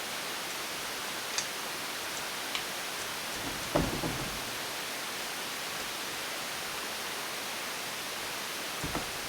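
Flathead screwdriver clicking and knocking against the cylinder base of a two-stroke engine as it is worked in to pry off a stuck cylinder, with one louder knock about four seconds in and another near the end. A steady hiss runs underneath.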